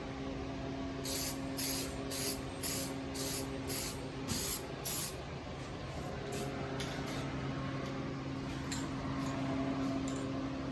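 Aerosol spray-paint can sprayed in short bursts: about eight quick hisses in the first five seconds, then fainter, lighter passes, over a steady low hum.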